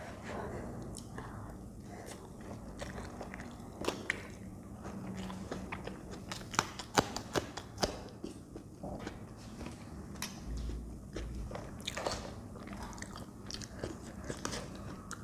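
Close-miked chewing of spicy Maggi instant noodles, with a cluster of sharp crunching bites about seven seconds in as a raw green chilli is bitten into.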